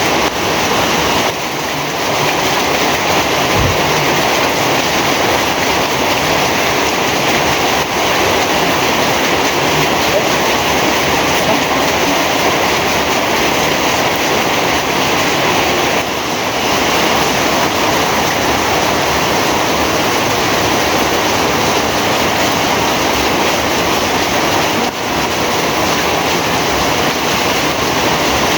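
Heavy rain pouring steadily, a loud dense hiss with brief slight dips about a second in, about halfway and near the end.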